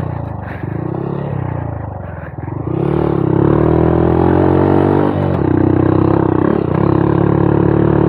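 Honda Monkey 125's single-cylinder four-stroke engine pulling under throttle off-road. It opens up and gets louder about a third of the way in, eases off briefly past the middle, then comes back on the throttle.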